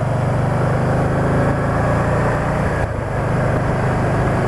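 Can-Am Spyder three-wheeled motorcycle riding at road speed: the engine runs steadily under a rush of wind and road noise. The engine note dips briefly about three seconds in.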